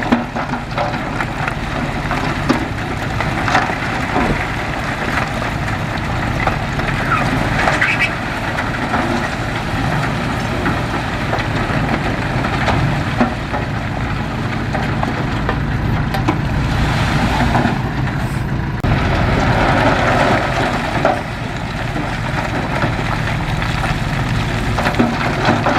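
Diesel engine of heavy earthmoving machinery running steadily with a low rumble, with scattered short clanks and knocks.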